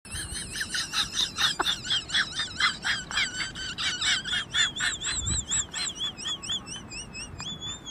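Bird-like high-pitched chirping, quick chirps about five a second, turning in the second half into a warbling whistle that wavers up and down about three times a second.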